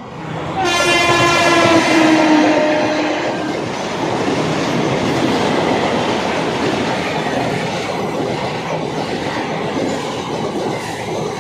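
Mumbai suburban local train: a horn sounds for about three seconds, dropping slightly in pitch, over the steady rumble and clatter of the train running on the rails, which continues after the horn stops.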